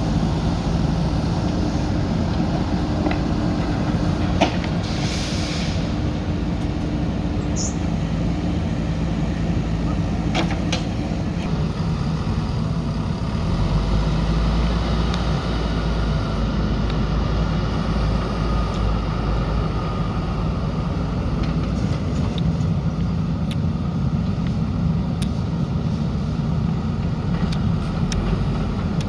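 JCB backhoe loader's diesel engine running steadily under work, growing heavier and deeper for several seconds in the middle, with a few short knocks.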